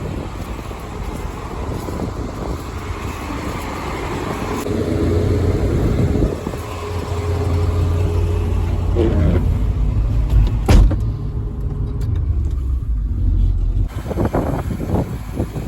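1996 GMC Topkick's 7.1-litre gas engine running, its low rumble swelling and easing as load comes on and off, with a faint steady whine for a few seconds. A single sharp click comes near the middle.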